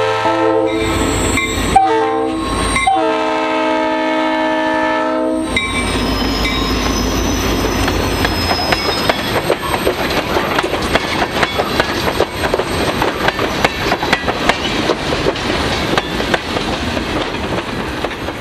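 Diesel locomotive's multi-chime air horn sounding: a blast carried over from before, a brief toot about two seconds in, then a long blast that cuts off after about five and a half seconds, the close of a grade-crossing horn pattern. The train then rolls past with steady wheel noise and rapid clicking of wheels over rail joints.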